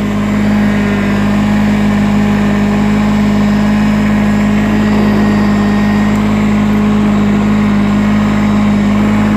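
Small diesel tractor engine running steadily at an even speed.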